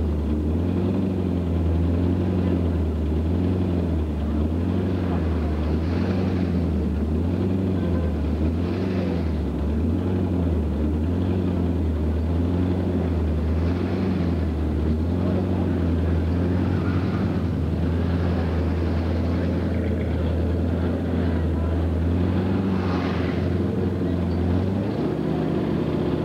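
Supercharged V8 street-machine engine idling with a lumpy, loping note that swells and dips about once a second, heard from inside the car's cabin. Near the end the idle note changes.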